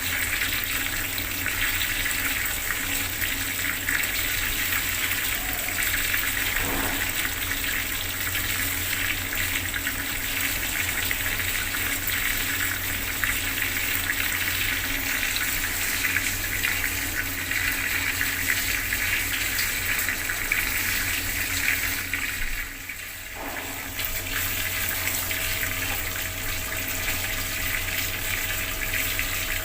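Bathroom water tap running steadily, water pouring and splashing. The sound drops briefly for about a second roughly three-quarters of the way through, then carries on as before.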